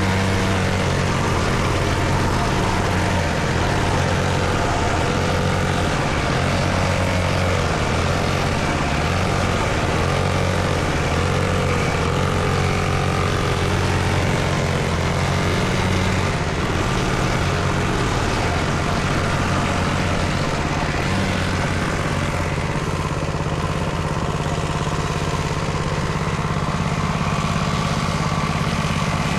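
Small dirt bike engine running steadily, its pitch holding fairly even throughout.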